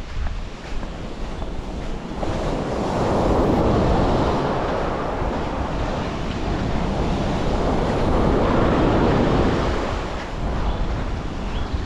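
Waves washing onto a beach, with wind buffeting the microphone. The surf swells louder twice, a few seconds in and again about two-thirds of the way through.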